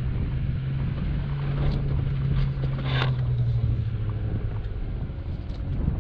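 Jeep Wrangler Unlimited Rubicon engine running steadily at low speed, a low drone that fades out near the end, with scattered clicks and knocks and a louder rattling burst about three seconds in.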